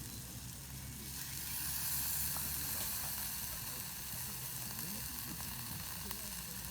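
Food sizzling as it cooks over the heat, a steady frying hiss that swells louder about a second in and then eases back.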